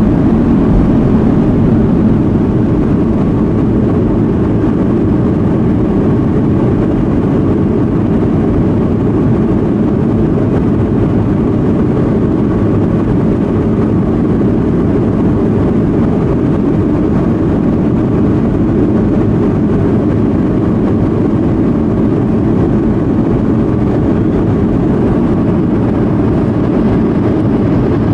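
Steady, even roar of a Boeing 737-200's Pratt & Whitney JT8D turbofan engines and airflow, heard from on board, holding constant with no change in power.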